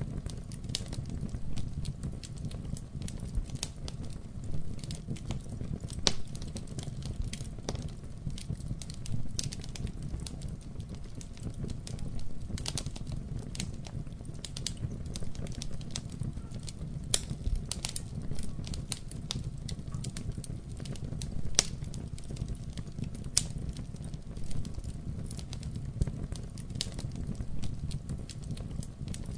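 Wood fire burning in a fireplace: a steady low rumble of flame with irregular crackles and occasional sharper pops.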